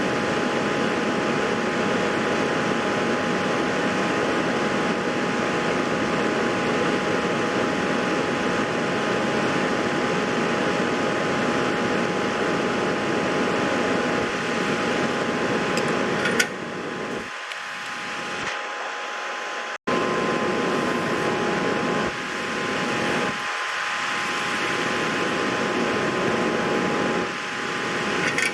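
A steady fan-like whir with a faint constant whine in it. Just past halfway there is a small click, then it goes quieter for a few seconds and cuts out for an instant before resuming.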